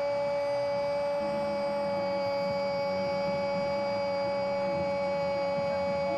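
A steady electronic drone of several held tones, unchanging in pitch and level, the loudest a mid-pitched hum.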